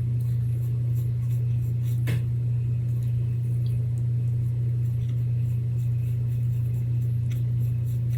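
A steady low hum with no change in pitch or level, and a faint tap about two seconds in.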